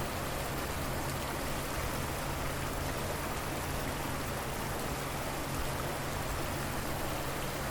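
River water flowing, a steady rushing hiss that does not change.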